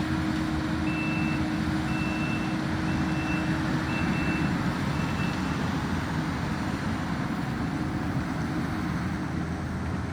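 Skid steer engine running steadily under load while its backup alarm beeps five times, about once a second, stopping about halfway through.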